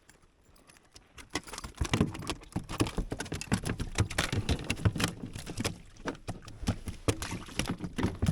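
Rapid, irregular knocks and rattles on a fishing kayak as a freshly caught smallmouth bass is handled aboard, starting about a second in.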